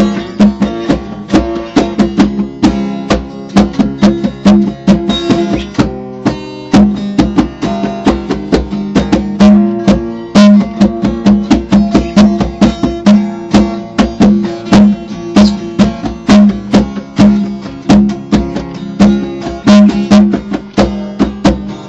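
Guitar music in a steady rhythm: a guitar strummed and plucked over repeated percussion strikes.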